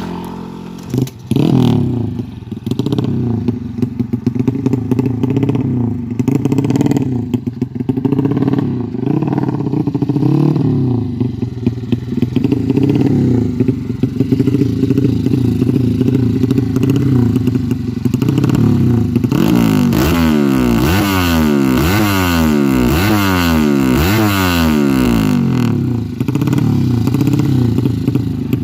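Race-tuned 200cc Yamaha Jupiter-based single-cylinder motorcycle engine running loud and being blipped on the throttle over and over while its PWK Sudco 33 carburettor is set. About two-thirds of the way through it is revved hard in a quick run of sharp blips, about one a second.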